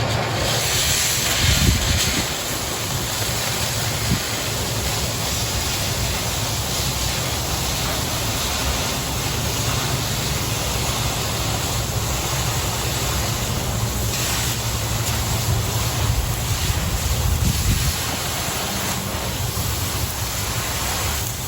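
Oxy-fuel cutting torch with the cutting oxygen on, a steady hiss as it cuts through quarter-inch steel plate. The hiss starts at once and cuts off near the end.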